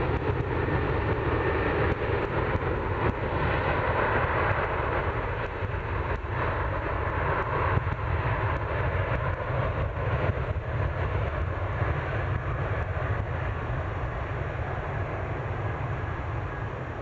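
Jet airliner's engines rumbling steadily as it passes near the runway, slowly fading toward the end.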